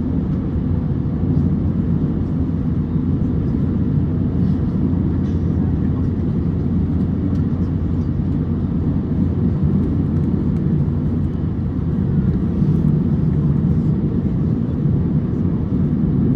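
Steady low rumble of cabin noise inside an Airbus A350-900 during taxi, from its Rolls-Royce Trent XWB engines at low taxi power.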